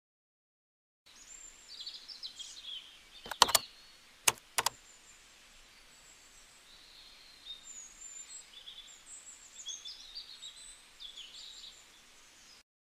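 Birds chirping over a faint hiss, starting about a second in, with a few sharp clicks between about three and five seconds in.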